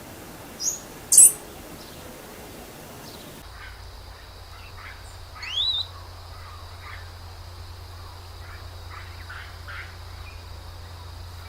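Wild forest birds calling: two sharp, very high notes in the first second and a half, then after an abrupt change of background a loud rising call about five and a half seconds in, followed by scattered shorter chips and calls.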